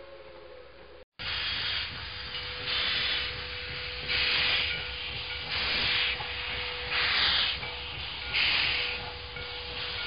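Steam locomotive chuffing slowly: regular puffs of exhaust steam about every second and a half, over a faint steady tone. Before the puffs start, the end of a whistle-like sound cuts off about a second in.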